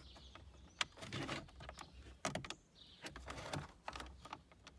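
Scattered light clicks and rustling of hands handling a tiny screw and a screwdriver at a car dashboard, with one sharp click about a second in.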